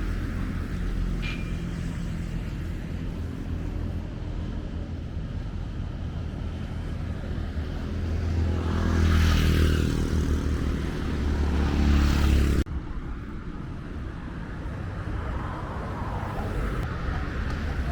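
Road traffic with a steady low rumble; a vehicle passes close by, louder from about eight seconds in, and cuts off suddenly about twelve and a half seconds in.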